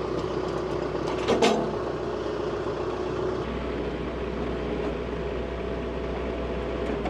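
Compact tractor engine idling steadily, with a single sharp knock about a second and a half in and the low rumble growing a little stronger about halfway through.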